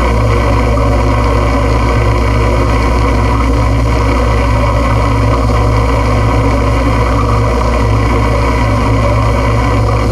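Dense, loud noise-music drone: a heavy low hum under a wash of hissing noise with faint steady tones, holding steady with no breaks or hits.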